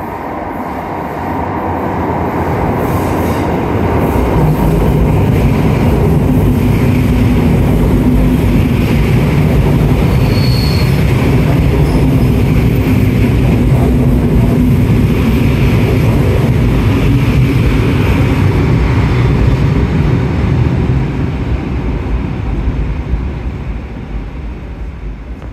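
Electric multiple unit of the EN57 family pulling into an underground station platform: a loud, echoing rumble of wheels and motors with some wheel clatter, building over the first few seconds. A brief high wheel squeal comes about ten seconds in, and the sound dies away over the last five seconds as the train slows to a stop.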